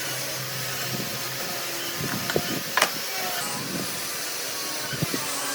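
Steady hissing noise with a few short knocks, about two seconds in, near three seconds and near the end.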